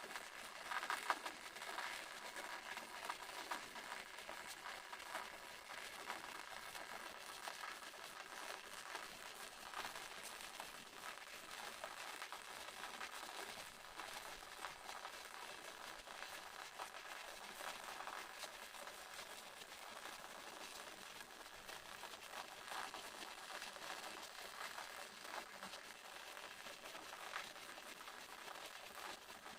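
Waterfall splashing: a steady hissing rush of falling water, full of fine crackling splashes and with little low rumble.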